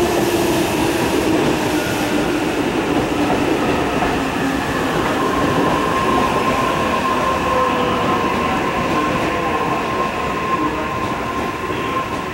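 Steady train noise at a station: a continuous rumble with faint gliding tones, joined about five seconds in by a steady whine that stops just before the end.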